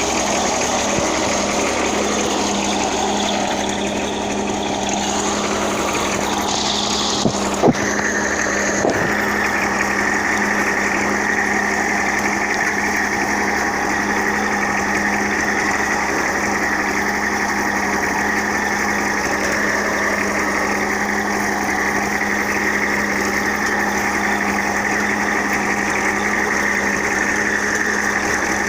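Ebro farm tractor's diesel engine running steadily under load as it pulls a 16-disc harrow across the field. Two short sharp clicks come about seven and nine seconds in.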